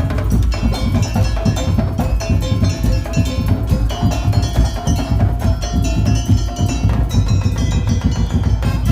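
Madurese daul (tong-tong) percussion ensemble playing a busy rhythm: quick knocking beats over deep drum beats, with ringing pitched metal tones sounding a melody.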